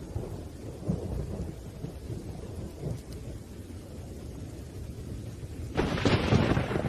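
Thunderstorm: a steady low rumble of thunder over rain, then a sudden, louder crack of thunder near the end.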